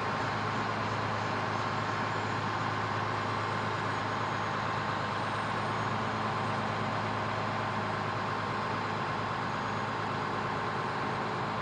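Fire truck engine running steadily, a low even hum with no change in pitch or level.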